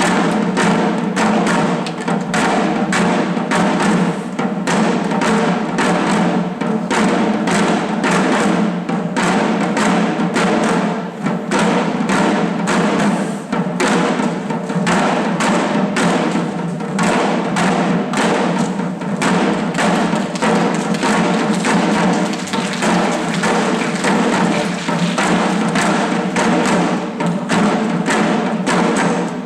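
Shishi-odori deer-dance drumming: dancers beating the taiko drums hung at their chests in a steady driving rhythm, about three beats a second, with a steady lower tone beneath.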